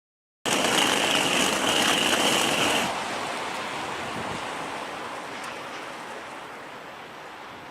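Rushing water starts abruptly, loud with a steady high whistle for about two and a half seconds, then gradually fades away.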